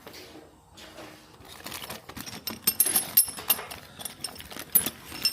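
Hand tools working on motorcycle bolts: rapid runs of clicks and sharp metallic clinks of a socket wrench and sockets as the bolts are loosened, loudest around the middle and again near the end.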